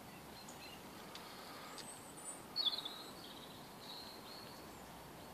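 A small bird chirping a few short high notes and a brief trill, about two and a half seconds in, over a faint steady outdoor hiss.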